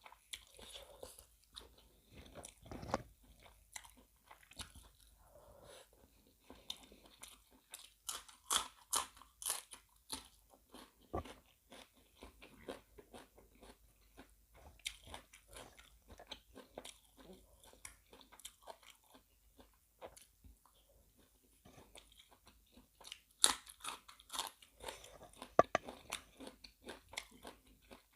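Close-miked chewing and biting, with crisp crunching of seafood larb and raw vegetables. The crunches come in irregular runs, loudest in a cluster about a third of the way in and again near the end.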